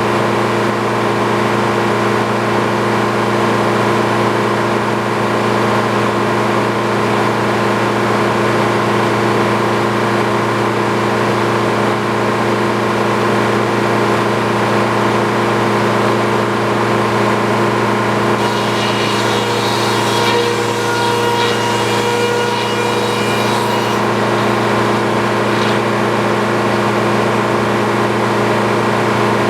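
Portable sawmill's engine running steadily at a constant speed. From about two-thirds of the way in, extra high-pitched tones and a scratchy hiss join it for a few seconds.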